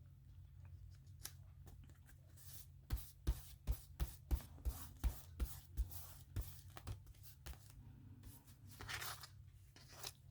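Scissors snipping paper: a run of quick, even snips, about three a second, thinning out after a few seconds, then a short rustle of paper near the end.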